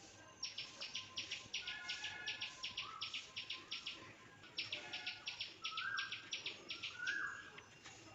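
A bird calling: two runs of quick, high repeated chirps, about six a second, each lasting about two seconds, with a few lower, shorter notes between and after them.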